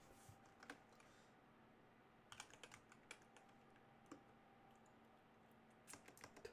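Faint typing on a computer keyboard: scattered keystrokes in short bursts, with pauses between them.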